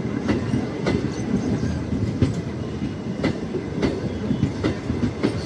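Electric multiple-unit (EMU) suburban local train passing close by at slow speed, its wheels clicking over the rail joints every half second or so over a steady low rumble.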